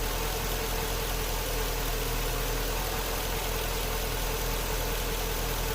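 5.7 L Hemi V8 of a 2008 Jeep Grand Cherokee idling steadily at a raised idle held up during the crank relearn, all cylinders firing again after a battery-disconnect reset cleared the cylinder-deactivation logic fault.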